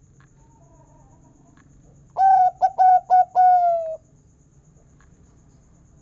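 Zebra dove (perkutut) cooing one song phrase: a first note, a quick run of three short notes, then a long, slightly falling final note, about two seconds in all.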